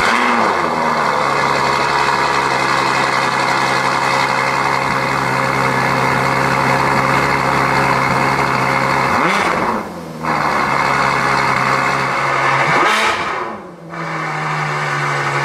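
Ferrari F12 Berlinetta's V12 on its stock exhaust, idling high just after a cold start. Its pitch settles in the first second, then holds steady; the sound dips briefly about ten and fourteen seconds in.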